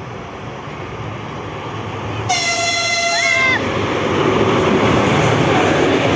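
A passing train sounds its horn once, a steady chord of tones for about a second, cut off sharply. Around it the rumble of the train grows louder as it runs through the station.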